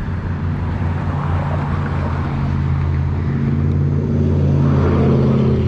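A motor vehicle's engine running nearby, a steady low hum that grows a little louder toward the end.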